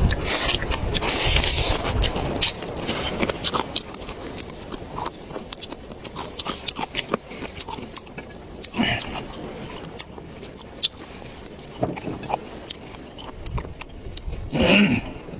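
Close-miked eating: chewing and mouth clicks with scattered sharp clicks, a louder noisy stretch in the first couple of seconds and a short loud burst near the end.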